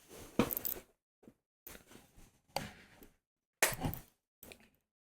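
About six short knocks and clicks at irregular intervals, with dead silence between them.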